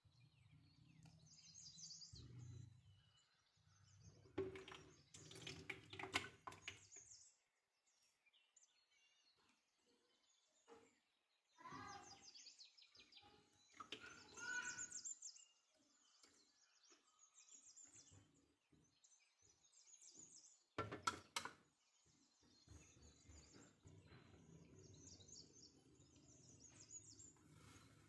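Faint birds chirping in short bursts, with a low hum at times. A few sharp knocks and clinks, the loudest about six seconds in and again about twenty-one seconds in, come from ingredients going into a plastic blender jar.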